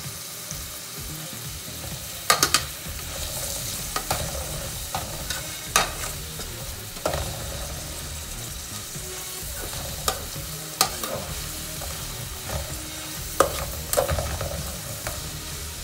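Chopped onion and coriander frying with a steady sizzle in an aluminium pot, stirred with a metal fork whose tines clink and scrape sharply against the pot every second or two.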